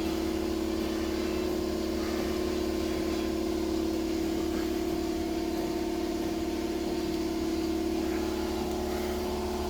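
Steady machine hum at one constant pitch, unchanging throughout.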